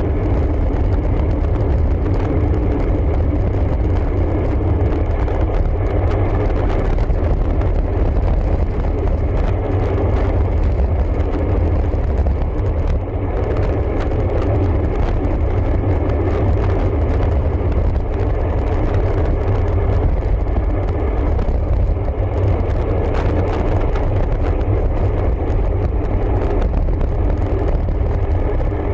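Steady, loud wind rumble on a camera microphone riding along on a road bike, with road noise underneath.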